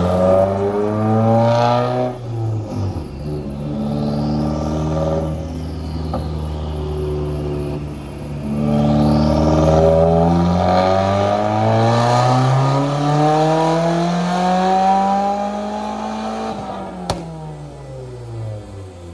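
Turbocharged Subaru WRX flat-four with its mufflers deleted, run at full throttle on a chassis dyno: one pull ends with the revs dropping about two seconds in, then after a lull another pull climbs steadily for about eight seconds before the throttle closes and the revs fall, with a single sharp pop as they drop.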